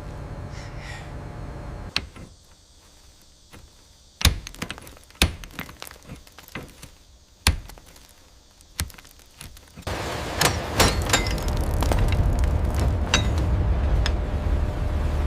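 A series of sharp knocks and clanks a second or more apart, then, about ten seconds in, a louder steady low rumble with rapid clattering over it.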